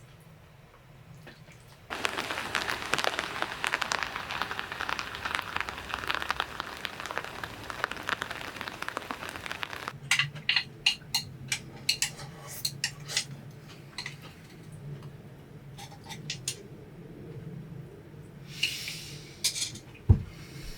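Small-space kitchen sounds: a crackling, sizzle-like hiss starts abruptly and cuts off about eight seconds later, followed by light clinks and taps of utensils against dishes, and a low thump near the end.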